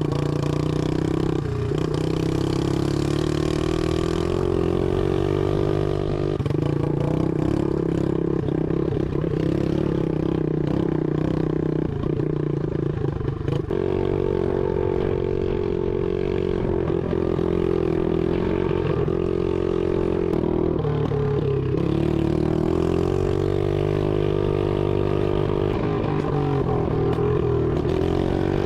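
SSR 125 automatic dirt bike's single-cylinder four-stroke engine running loud while being ridden, its pitch rising and falling with the throttle; the muffler is not connected to the exhaust pipe, so the exhaust is effectively open.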